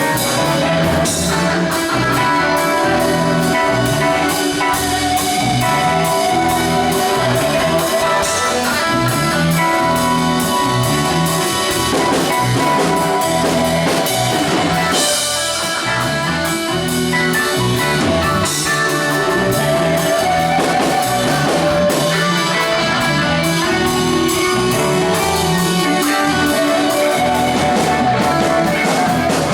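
A band playing together, with electric guitar lines over bass and a drum kit keeping a steady beat.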